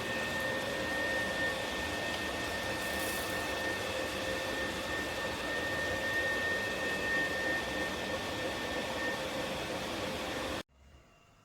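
iDOO cordless dual-motor electric spin mop running: a steady whirring hiss with a constant high whine, cutting off suddenly near the end.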